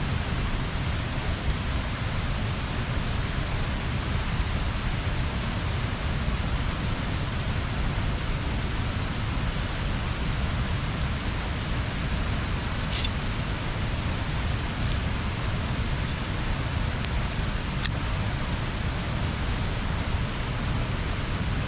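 Wood bonfire burning: a steady rushing hiss with a few sharp crackles from the wood, the clearest about halfway through and another a few seconds later.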